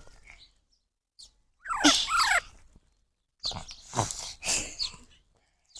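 Parrot calling in two short bouts: first a few squealing calls that glide in pitch, then harsher, rasping calls a moment later.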